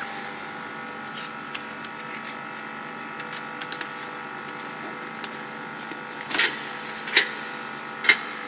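Tuna can filling machine running with a steady hum, with small clicks throughout and three louder clacks in the last two seconds or so.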